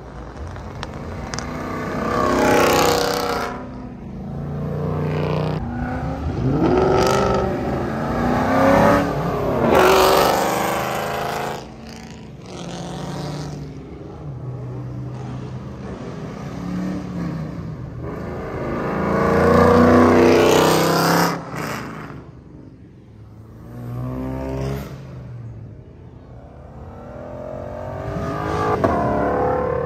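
Muscle cars accelerating hard past one after another, engines revving up and pulling through the gears, each pass rising and then fading. Quieter road traffic runs between the passes.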